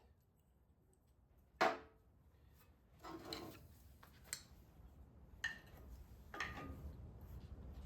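Scattered metallic clinks and knocks of hand tools and engine parts being handled, a handful of separate strikes with the loudest about a second and a half in. A low rumble builds near the end.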